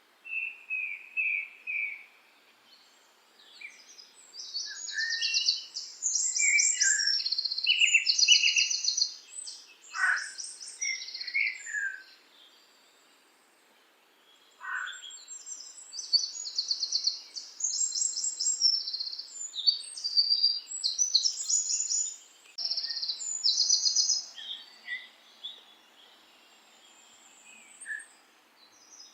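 Songbirds singing: bursts of fast, high chirping trills and shorter lower chirps, with a couple of quick downward-sliding whistles. The singing pauses for a few seconds at a time.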